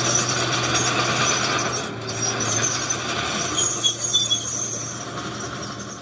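Bulldozer's diesel engine running with a steady low hum, under a grinding, scraping noise from the steel tracks and blade working, with a few short high squeaks from the tracks about two-thirds of the way through.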